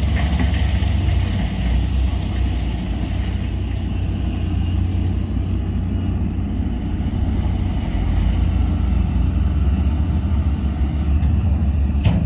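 Heavy diesel engine of earthmoving machinery running steadily with a deep drone, with a short sharp click near the end.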